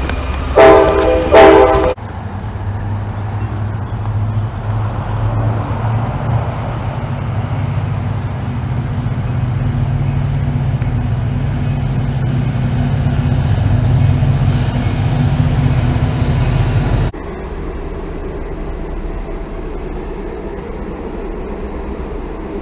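Norfolk Southern diesel freight locomotive's air horn sounding two short blasts, then the locomotive's engine running steadily as the train passes close by. About 17 seconds in it cuts abruptly to the quieter, steady rumble of another passing freight train.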